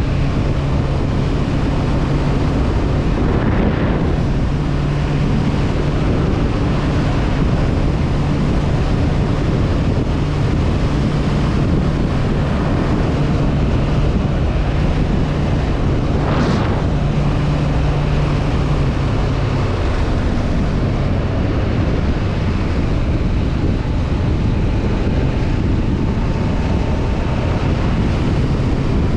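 Honda CB500F parallel-twin engine running at a steady cruising note under heavy wind noise on the microphone. The engine note weakens about two-thirds through and comes back near the end. A short whoosh rises and falls about halfway through.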